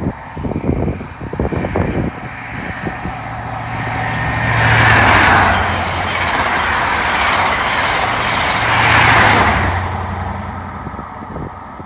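CrossCountry diesel passenger train passing at speed. It is a rushing noise of wheels on rail over a steady low engine hum, loudest twice, about five and nine seconds in, then fading away. Wind buffets the microphone in the first two seconds.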